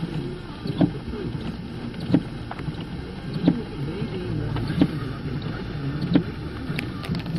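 A vehicle moving through rain and floodwater: steady water and road noise, with a regular thump about every second and a third.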